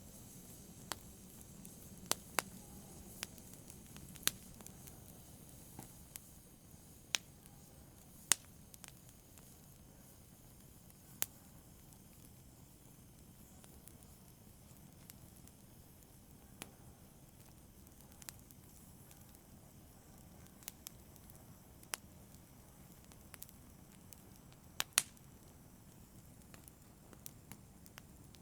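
Fire crackling softly in a brazier: a faint steady hiss broken by sharp, irregular pops and snaps every second or two, with a couple of louder pops.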